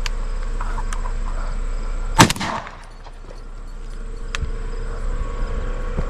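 A single shotgun shot during a dove hunt, one sharp blast about two seconds in with a brief echo after it.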